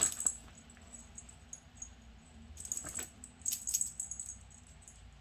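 Small metal bell on a pet's collar jingling in short scattered clusters: once at the start, then more busily from about two and a half to four seconds in.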